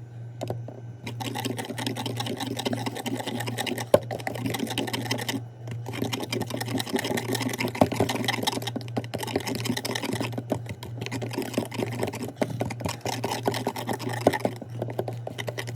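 Brownie batter being stirred quickly by hand in a microwave brownie-baker pan, the utensil clicking and scraping rapidly against the pan, with a few short pauses. A steady low hum runs underneath.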